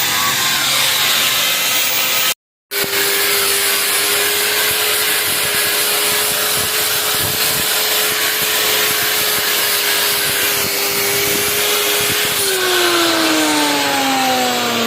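Angle grinder grinding a steel piece down to size, running steadily. Near the end it is switched off and its whine falls in pitch as the disc spins down.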